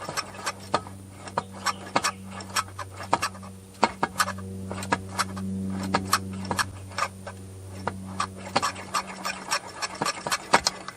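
Light hammer taps on the end of a chainsaw crankshaft, a few a second and irregular, knocking a stuck crank over so it turns freely in the freshly closed crankcase. A steady low hum runs underneath, louder through the middle.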